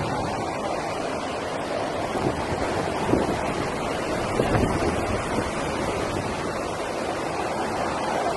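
Typhoon wind gusting hard against the microphone over the rush of rough sea surf, swelling in a few stronger gusts.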